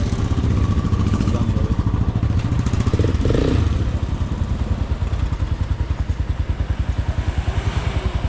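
Motorcycle engine running as the bike is ridden, a steady low exhaust beat made of fast regular pulses.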